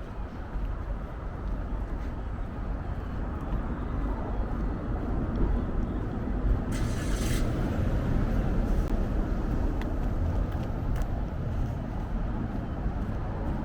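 Street ambience dominated by road traffic, with car noise rising and falling, and a brief hiss about seven seconds in.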